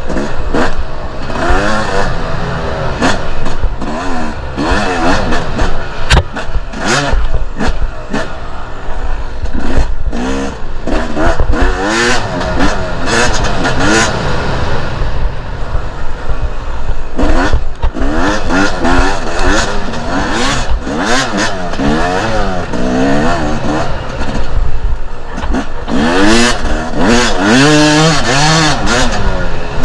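Two-stroke enduro dirt bike engine revving hard, its pitch climbing and dropping again and again as the throttle is worked over rough ground. Knocks and clatter from the bike over the terrain run through it.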